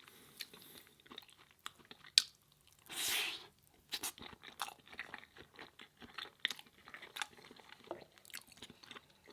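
Close-miked chewing of food, with wet clicks and smacks of the mouth. A short rush of noise comes about three seconds in.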